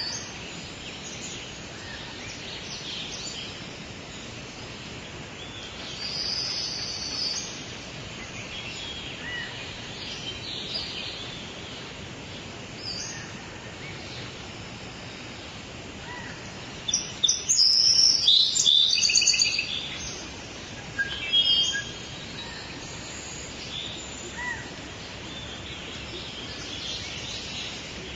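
Songbirds chirping and calling on and off over a steady background hiss, with a louder burst of rapid, trilling song about 17 seconds in that lasts two or three seconds.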